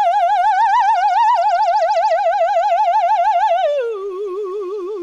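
A cartoon cow's long operatic sung "moo" with a strong, even vibrato. It holds one high note, then slides down to a lower held note near the end.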